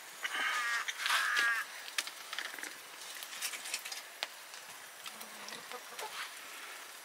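A bird calling in two short bursts of quick repeated notes in the first second and a half, followed by scattered light clicks.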